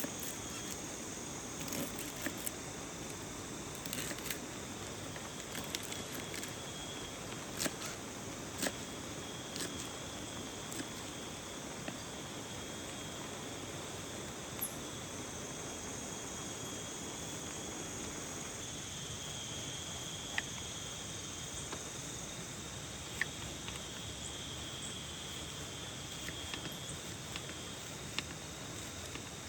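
Steady rain falling, with scattered sharp taps of drops hitting a tent or tarp. A thin, high-pitched trill fades in and out.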